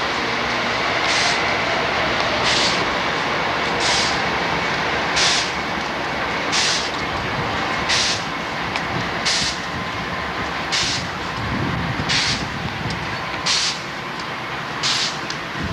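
Freight train cars rolling past with a steady rumble, and a sharp clack about every second and a half as the wheels cross a rail joint.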